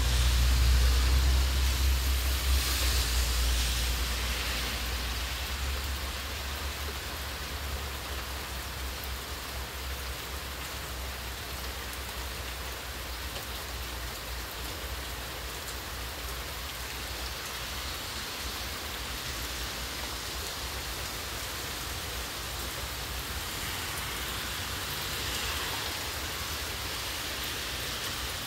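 Steady rain falling on pavement, grass and trees, an even hiss. A low rumble in the first few seconds fades away.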